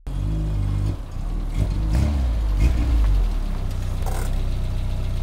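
Car engine running, revved a few times in the first three seconds, then settling to a steady idle.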